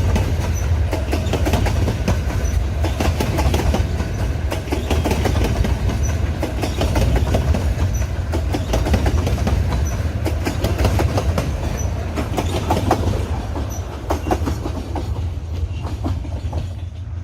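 Freight train wagons rolling past, a steady low rumble with fast, continual clicking of the wheels over the rail joints.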